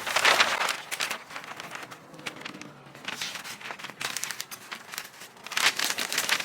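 Dry crinkling and crackling, like material being crumpled or torn, coming in uneven bursts, loudest near the start and again near the end.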